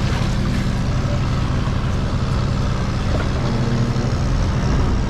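Tour boat's engine running steadily with a loud, even low hum.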